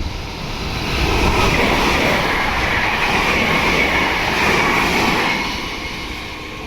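A train passing close by on the rails: a steady rush of wheel and rail noise that builds about a second in, holds, and eases off after about five seconds.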